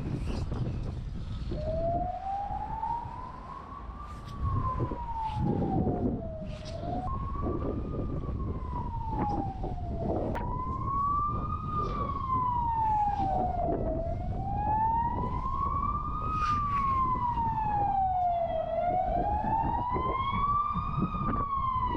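Emergency vehicle siren wailing, its pitch rising and falling slowly about every four to five seconds, starting a couple of seconds in, over a steady low rumble.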